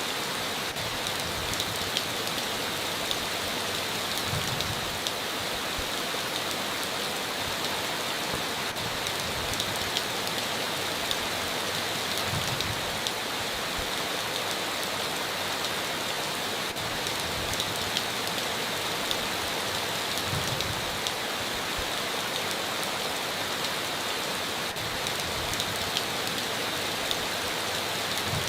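Heavy rain falling steadily on a tin roof, a constant hiss with many sharp drop ticks scattered through it.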